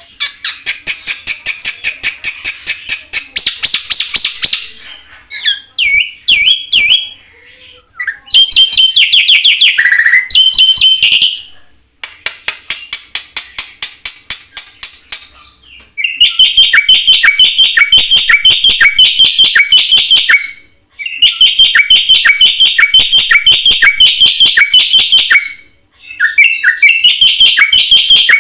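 Black-winged starling (jalak putih) singing loudly in long runs of sharp, rapidly repeated notes, a few a second, broken by brief pauses. The song is full of mixed-in phrases.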